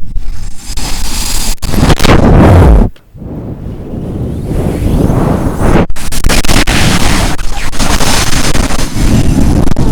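Strong wind blowing in gusts and buffeting the microphone with a heavy low rumble. It is loudest around two and a half seconds in, cuts off abruptly just before three seconds, then builds back up to a steady blast.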